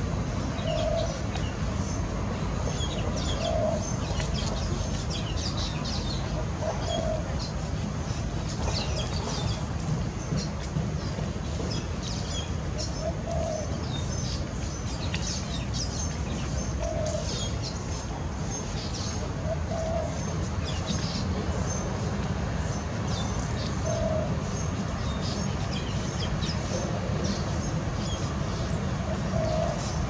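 Birds chirping over a steady low background rumble, with a soft low call repeating every three to four seconds.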